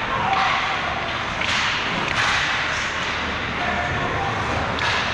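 Ice hockey skate blades scraping and carving across the ice in several quick swishes, over steady rink noise.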